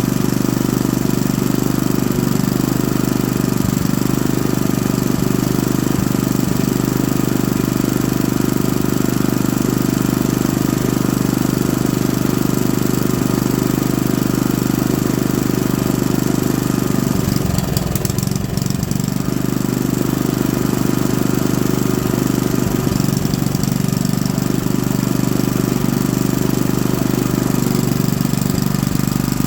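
Honda GX110 single-cylinder four-stroke engine running steadily, its note changing briefly about two-thirds of the way through before settling again.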